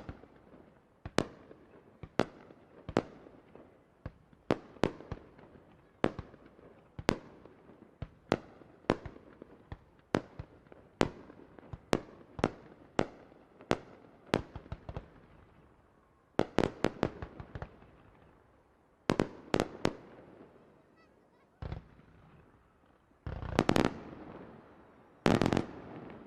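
Fireworks shells bursting one after another, sharp bangs with short echoing tails at about two a second. Later they come in quick clusters, ending in two dense, louder spells of bursts near the end.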